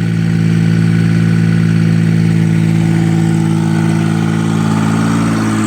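Kubota pony motor on a bucket truck running at a steady speed, an even engine drone powering the boom hydraulics.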